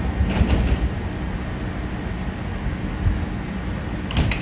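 Kintetsu electric train of 2800, 2410 and 1400 series cars rolling along the platform with a steady low rumble. A few sharp clacks sound about half a second in and again twice near the end.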